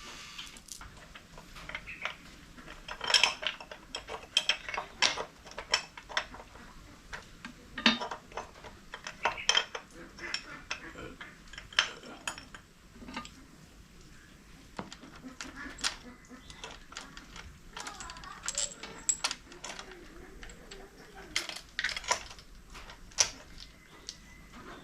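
Metal tools and engine parts clinking and knocking against each other in irregular, separate clanks during hands-on engine disassembly.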